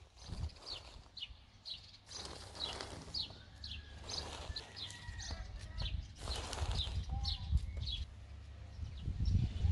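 A small bird chirping over and over, short high chirps a few times a second. There are bursts of hiss-like noise about two, four and six seconds in, and a low rumble underneath.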